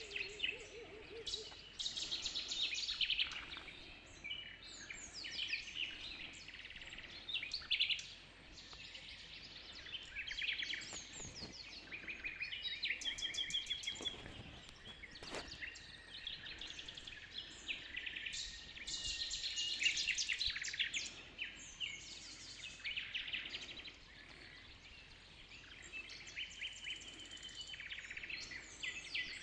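Dawn chorus of many small birds chirping and singing at once, with overlapping calls and rapid trills that swell and fade throughout.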